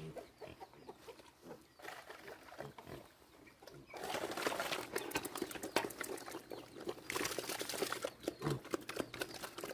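Pigs grunting and rooting, with a dense crackling rustle that starts about four seconds in.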